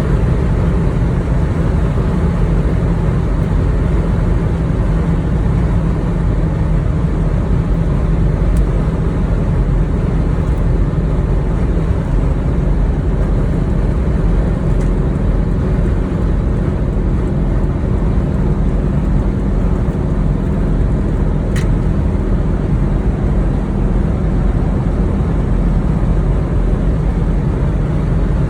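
Toyota Land Cruiser HDJ81 straight-six turbo diesel driving at steady highway speed: a constant low engine drone and road noise, with one faint short click about three quarters of the way through.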